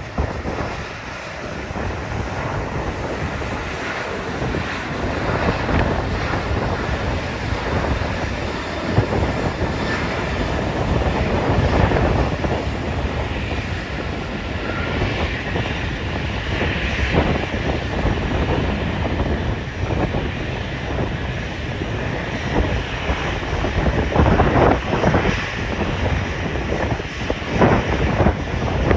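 Airliner engine noise at an airport, mixed with heavy wind buffeting on the microphone that comes in gusts, strongest near the end.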